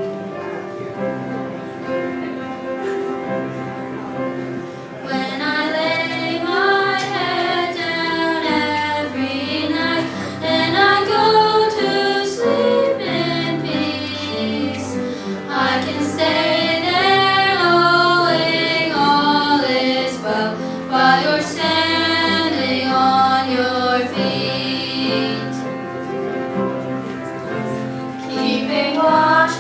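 Children singing a song over a steady instrumental accompaniment, which plays alone for about the first five seconds before the voices come in.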